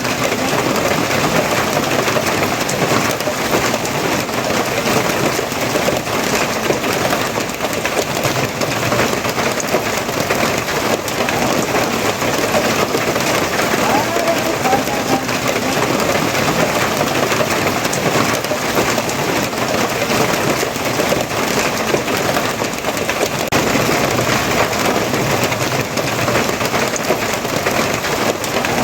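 Steady heavy rain falling and pattering on a surface, an even, dense hiss with fine spattering throughout.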